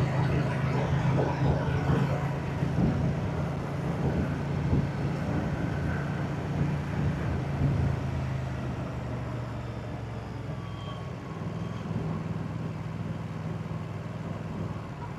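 Moto Guzzi motorcycle's V-twin engine and exhaust running steadily on the move, easing a little in the second half.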